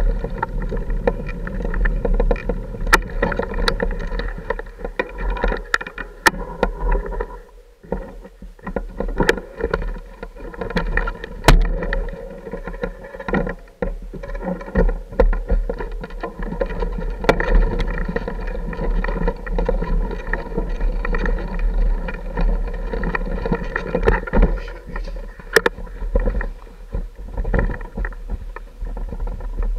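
Off-road motorcycle engine running at a low, steady pace over a rough trail, easing off briefly about eight seconds in. Knocks and rattles from the bike jolting over rocks come through throughout.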